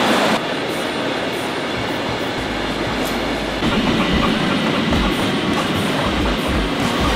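Trains running side by side: the steady rolling noise of wheels and carriages on the rails, heard from a moving train with the wooden Tait electric suburban set running alongside. The sound changes abruptly about half a second in and again about three and a half seconds in.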